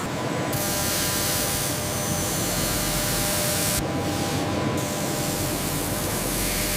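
A steady spraying hiss over a faint, even machine whine. The hiss cuts out briefly about four seconds in, then starts again.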